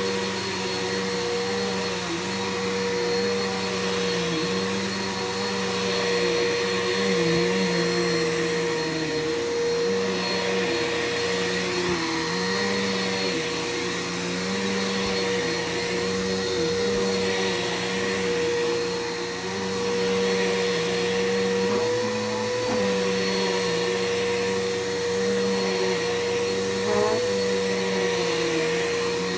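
Bissell PowerForce 6583-F bagless upright vacuum cleaner running while vacuuming: a steady motor whine, with a lower hum that shifts in pitch every second or two.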